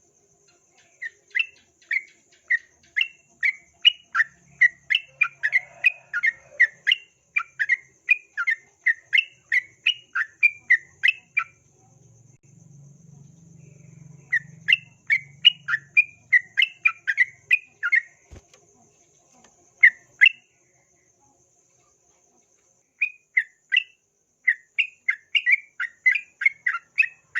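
Yellow-vented bulbul (trucukan) singing a fast run of short repeated chirps, about three a second, in long phrases broken by pauses of a few seconds.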